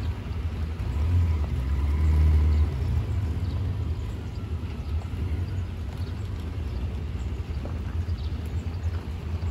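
Yamaha XJ900 inline-four motorcycle engine running with a steady low rumble, swelling louder from about one to three seconds in before settling back to an even note.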